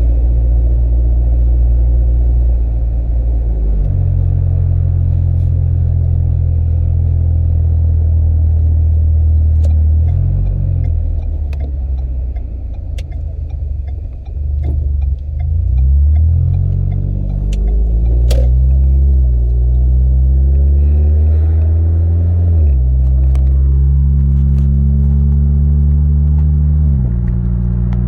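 The 2012 Ford Fusion's 2.5-litre four-cylinder engine, breathing through a Magnaflow 10416 muffler, heard from inside the cabin while driving, with a low, steady exhaust drone. Its pitch steps down and up several times. About halfway through it eases off, then rises again.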